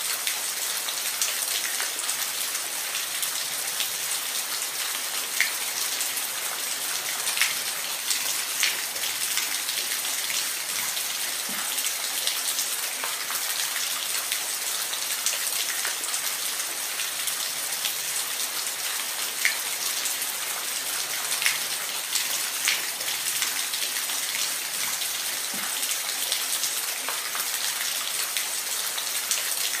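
Steady rain falling, a constant hiss with scattered sharper drips.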